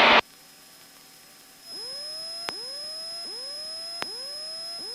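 Electronic tone in the aircraft radio/intercom audio: after a brief burst of static cuts off, a steady high whistle comes in about a second and a half in, with short rising chirps repeating a little more than once a second and a couple of faint clicks.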